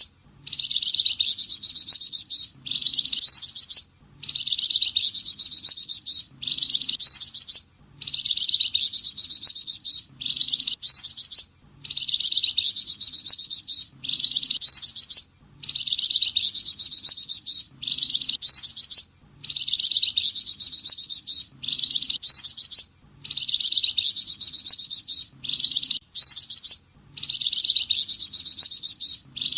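A flamboyan songbird's song: a high-pitched, rapid trilling chatter in phrases about two seconds long, each followed by a short break and repeated over and over in nearly the same pattern. This is the kind of song used as a master track for teaching caged songbirds.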